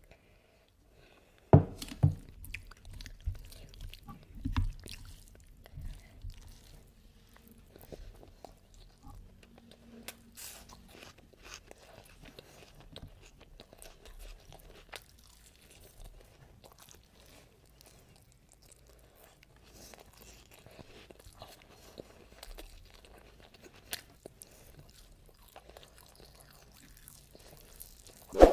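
Close-up eating sounds: chewing and crunching mouthfuls of mutton and biryani rice eaten by hand, with the meat being pulled apart by fingers. A sharp knock about a second and a half in.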